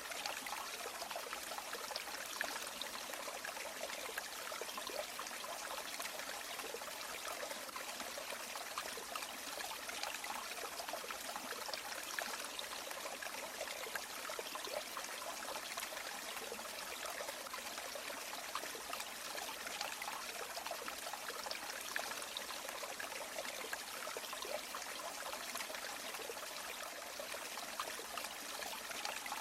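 A river or stream running over stones in a steady babble and trickle, with small splashes flickering through.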